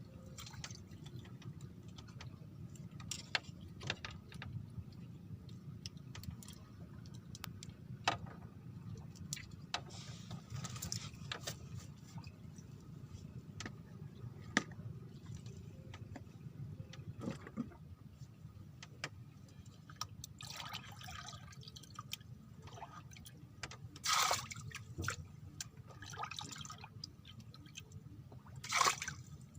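Water splashing and dripping in short bursts, the loudest about two-thirds of the way through and near the end, with scattered small clicks over a steady low hum.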